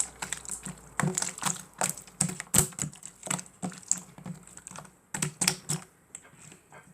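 Slime being squeezed and pressed by hand, giving an irregular run of sharp clicks and pops, several a second, that thins out near the end.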